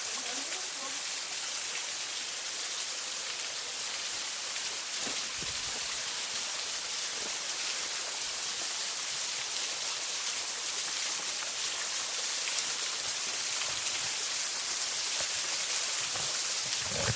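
Waterfall on a small river: a steady rushing hiss of falling and splashing water, growing slightly louder over the last few seconds.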